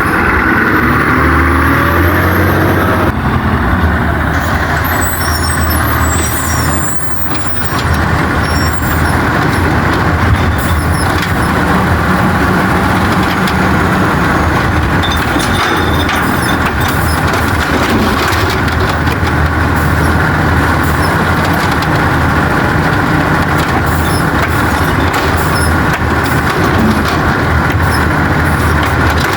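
Autocar WX64 garbage truck with an Amrep body, its engine revving high and steady while working the trash body. The engine pitch shifts over the first few seconds and dips briefly about seven seconds in, under a steady hiss and a few high squeaks.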